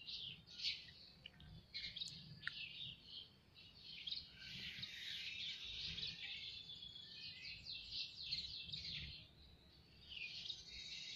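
Small birds chirping and twittering in a dense, continuous chorus of quick high notes, with a brief lull near the end.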